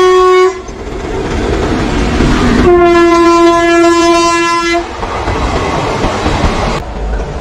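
Indian Railways locomotive horn sounding two loud blasts: one cutting off about half a second in, and a second, slightly lower one of about two seconds near the middle. Under the horn, the passenger train's coaches rumble and clatter over the rail joints as they pass.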